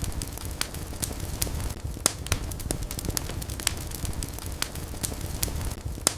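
Wood fire in a fireplace crackling, with frequent sharp pops over a steady low rumble of flames.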